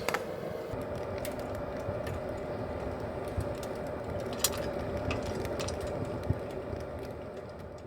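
Wood fire crackling inside a wood-burning camping stove, with scattered sharp pops and ticks over a steady hum, fading out near the end.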